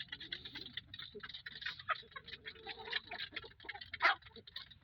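Chickens pecking at scattered feed: a quick, irregular run of light taps and clicks, with one louder tap about four seconds in.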